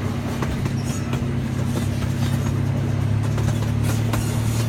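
Zoo ride train heard from a passenger coach as it rolls along: a steady low engine drone that grows slightly louder, with scattered clicks from the wheels and track.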